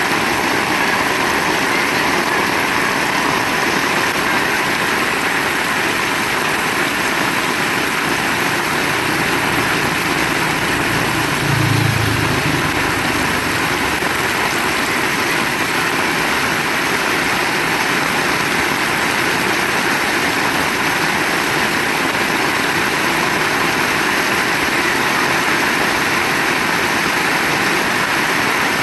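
Heavy rain pouring steadily, a dense even hiss, with a brief low rumble near the middle.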